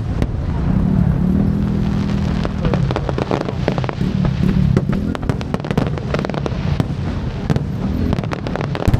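Fireworks display going off in a continuous barrage: many sharp bangs and crackles in quick, irregular succession over a low rumble.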